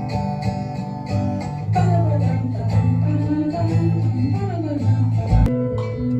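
Live band music with guitar playing sustained chords, in a gospel group's rehearsal.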